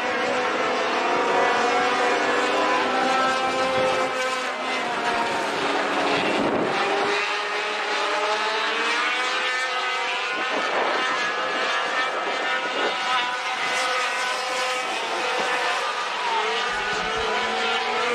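Several sport-truck race engines running together, their pitches rising and falling and overlapping as the trucks circle at varying revs.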